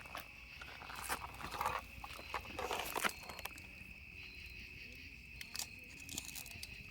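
Insects chirring steadily with one high, even drone. From about one to three and a half seconds in there is a run of crunching and rustling close by, then it goes quieter.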